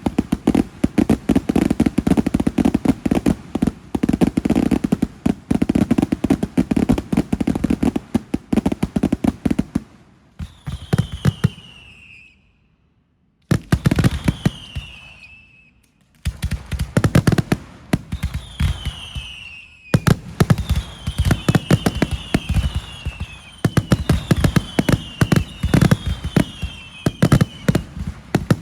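Fireworks display: a dense, rapid run of bangs and crackling that thins out, breaks off into near silence for a moment, then starts again suddenly with more bangs and a series of high whistles that fall in pitch, several overlapping near the end.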